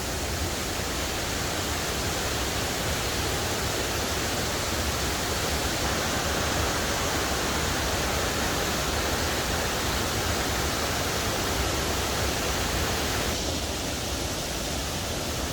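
A large waterfall in full flood after heavy rain: a steady, unbroken rush of falling water.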